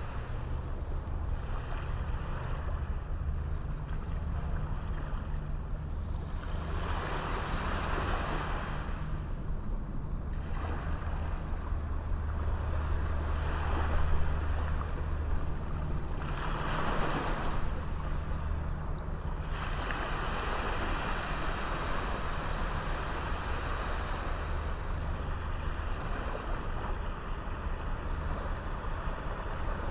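Small sea waves breaking and washing up a beach, several rushing swells a few seconds each, over a steady low rumble of wind on the microphone.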